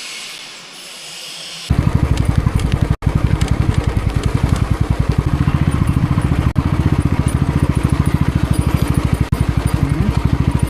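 Motorcycle engine running close by with a fast, even throb. It starts abruptly about two seconds in after a soft hiss, and cuts out briefly twice.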